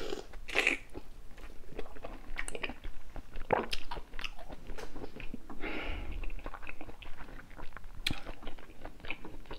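Close-miked eating: a bite, then chewing with wet mouth clicks and lip smacks on saucy seafood-boil food.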